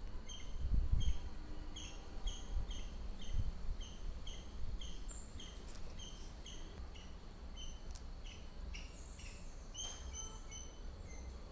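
A small bird calling in the background, one short chirp repeated evenly about three times a second. A few soft low thumps about a second in.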